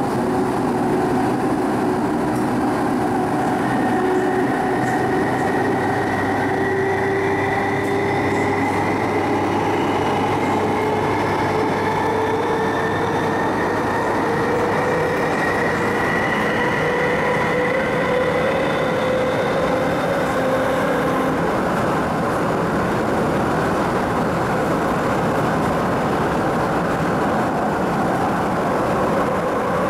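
MTR East Rail MLR electric multiple unit (refurbished car 2102) accelerating: the traction motors whine, their pitch climbing slowly over running and rail noise. About two-thirds of the way through, the rising whine fades and the train runs on with a steady rumble.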